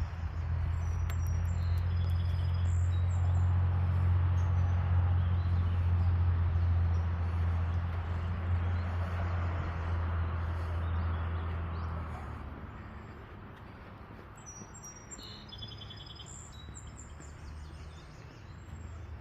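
Small birds chirping in short high calls, clustered near the start and again later. Under them is a low steady hum that fades out about twelve seconds in.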